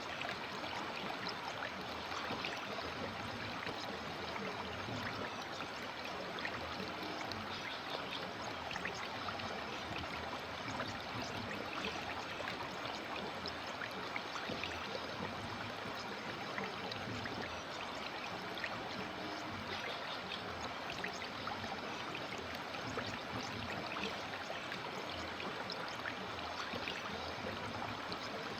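River water flowing steadily, an unbroken rush of water with small splashes and trickles through it.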